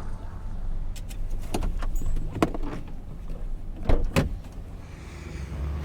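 Pickup truck crawling over a rough dirt track: a steady low engine rumble with sharp knocks and rattles as it jolts over bumps, the loudest two close together about four seconds in.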